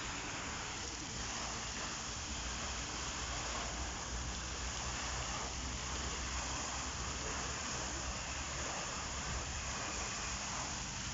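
Steady rushing hiss of moving water, even and unbroken, with a low rumble beneath.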